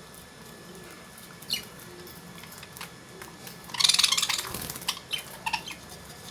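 Caged lovebirds: a short high chirp, then a loud harsh burst of bird noise about four seconds in, followed by a few more quick chirps. Faint small clicks of millet seeds being husked sound in between.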